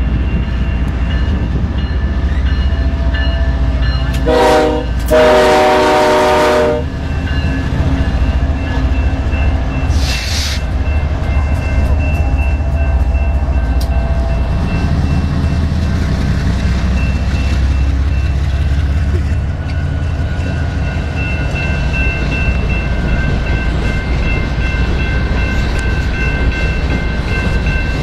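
BNSF freight locomotives passing close by with their diesel engines running in a steady low rumble and wheels clattering on the rails. The air horn sounds a short blast about four seconds in, then a longer one lasting about two seconds, the closing notes of a grade-crossing horn sequence.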